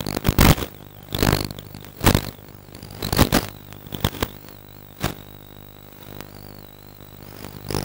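Radio-controlled model airplane in flight, heard from a camera on board: a steady motor drone with a thin wavering whine above it. About once a second it is broken by a loud rush of wind buffeting the microphone.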